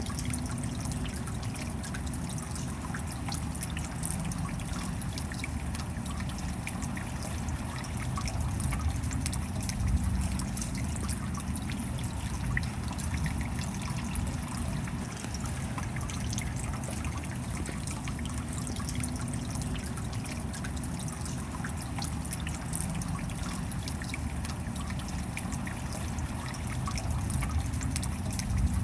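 Steady rain falling, with many fine drops pattering and a low rumble beneath, swelling slightly twice.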